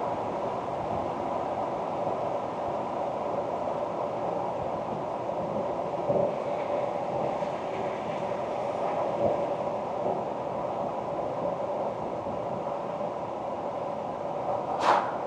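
Steady engine and road noise from a 2024 Ford Ranger Wildtrak on the move, with two light knocks about six and nine seconds in and a short, sharp, louder sound near the end.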